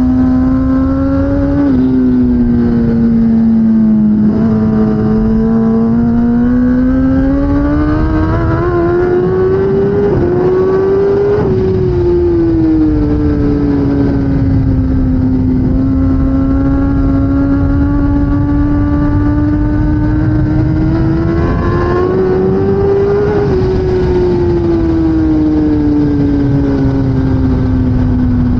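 2016 Kawasaki ZX10R's inline-four engine running hard under race load, its pitch climbing slowly for several seconds, easing back, holding steady, then climbing and easing again near the end. A constant rushing noise runs underneath.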